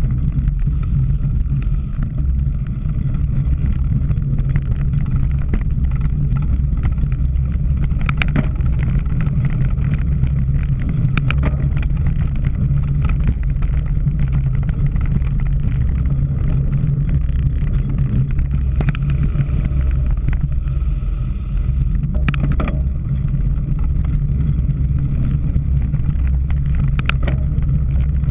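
Steady low rumble of a cyclocross bike being ridden over rough ground, with wind buffeting the camera's microphone. A few sharp rattles or clicks from the bike stand out over it, around 8, 11, 22 and 27 seconds in.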